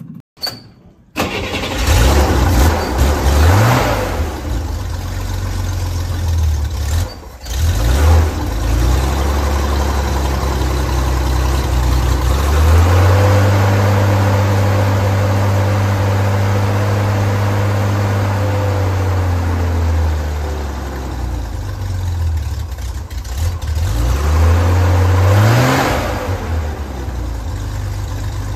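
1966 Chevrolet Corvair's rear air-cooled flat-six engine running, fed by a newly fitted electric fuel pump. It is blipped up in short revs a few times and held at a raised speed for several seconds in the middle before settling back to idle.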